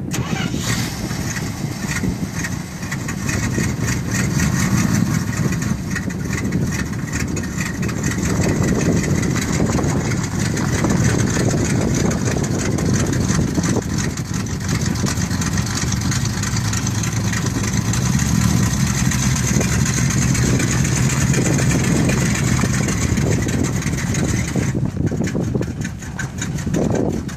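1984 Dodge pickup truck's engine running steadily at idle.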